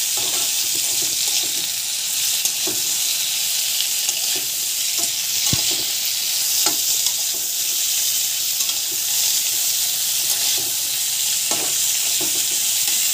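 Bamboo shoots sizzling as they are stir-fried in hot oil in a kadhai, with a steady hiss. The stirring spoon scrapes and knocks against the pan every second or so.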